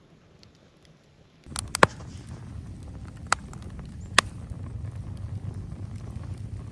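Wood fire in a portable fire pit burning with a low steady rumble and a few sharp pops and cracks, starting suddenly about a second and a half in after near-quiet.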